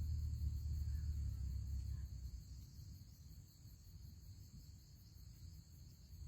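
Steady high-pitched drone of crickets or other insects, with a low rumble that fades about two seconds in.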